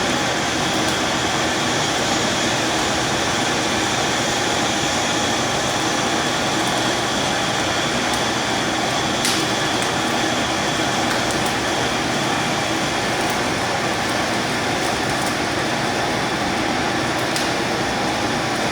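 Steady mechanical noise, like a running fan or machine, with a few faint sharp clicks.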